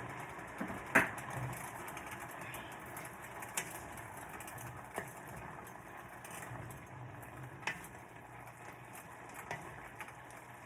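Steady hiss and low hum of cooking on the stove, with a few sharp clicks of a utensil against the pan, the loudest about a second in.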